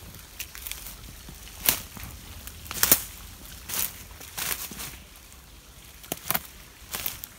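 Footsteps crunching on dry twigs and leaf litter on a forest floor, a crackling step about every second.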